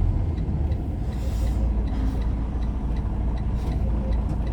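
Vehicle engine running steadily, heard from inside the cab as a low rumble, with a light ticking about twice a second.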